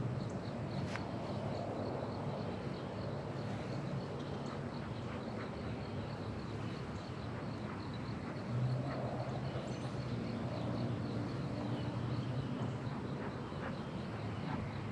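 Honeybees buzzing around an open hive, a low wavering hum that swells about eight and a half seconds in.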